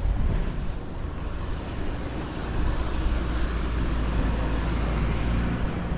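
A road vehicle passing along the seafront: a steady low engine rumble and tyre noise that swells in the middle and eases off near the end.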